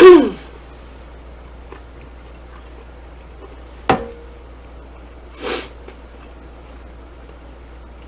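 Close-up sounds of a person eating between remarks: a short falling vocal 'mm' right at the start, a single sharp click about four seconds in, and a short sniff about five and a half seconds in.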